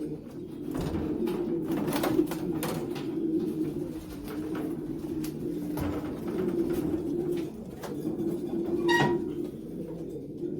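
Racing pigeons cooing in a loft, a continuous low chorus of coos, with scattered light clicks and rustles and a short higher call about nine seconds in.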